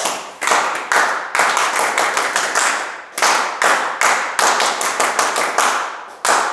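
Paó, the ritual Umbanda hand-clapping salute: a group clapping together in quick runs of claps, with short breaks about three seconds in and again near the end.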